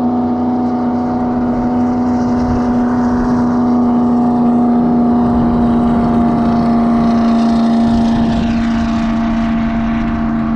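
Boat motor running at a steady speed, a constant, even hum with no change in pitch.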